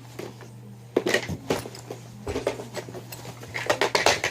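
Toys and small objects clattering and knocking as they are handled and put away: a scattered run of irregular clicks and knocks starting about a second in, thickest near the end, over a steady low hum.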